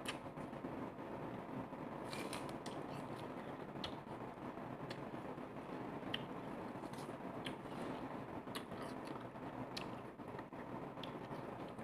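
Close-up eating sounds of a person chewing orange: irregular soft wet clicks and mouth smacks over a steady low hiss.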